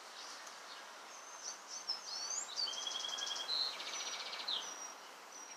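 Small songbirds singing: a run of high chirps and short whistles, with two quick buzzy trills about halfway through.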